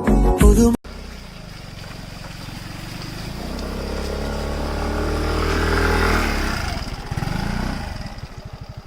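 Motor vehicle engine running, growing louder to a peak about five to six seconds in and then fading away, with a throbbing pulse near the end. A short burst of music ends abruptly within the first second.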